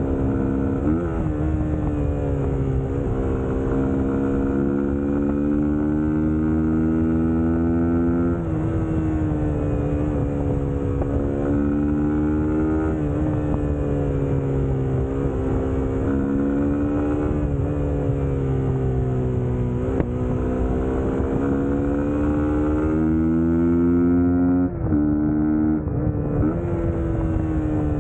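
Suzuki GSX-S150's single-cylinder engine running on the move, its pitch rising and falling over and over as the throttle changes, with a few sudden drops in pitch.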